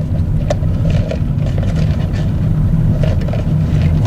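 Steady low rumble of a car driving, its engine and road noise running evenly.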